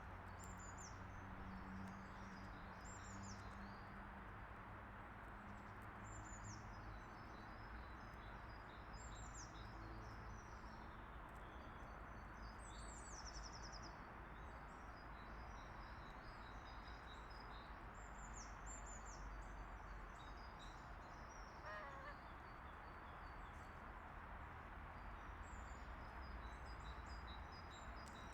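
Small birds singing faintly, short high phrases repeated every second or two, over a steady outdoor background noise.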